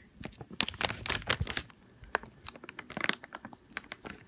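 A catnip bag crinkling and rustling in irregular bursts of crackles, busiest in the first second and a half and again around three seconds in.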